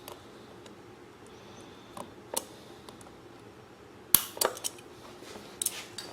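Scattered light metallic clicks and clinks of hand tools and small parts being handled, the sharpest a click about four seconds in, over quiet room tone.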